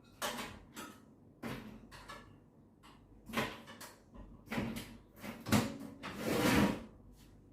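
Handling noises from small hard parts: a string of separate clicks, knocks and rattles, and a longer scraping rustle about six seconds in, as hands search for and handle a replacement microswitch.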